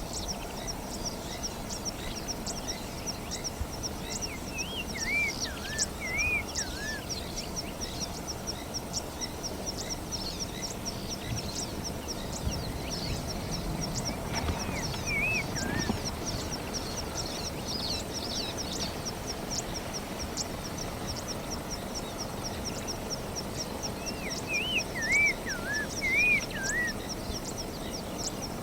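Bush ambience: a bird sings a short phrase of looping, gliding whistles three times, about five seconds in, around fifteen seconds and loudest near the end. Under it runs a continuous fast, high-pitched chirping, with a faint low rumble in the background.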